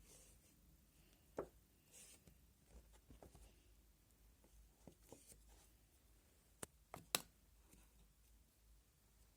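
Bubblegum slime being handled by hand: faint, scattered sticky clicks and pops as it is pressed and pulled, with a few sharper snaps, three close together about seven seconds in.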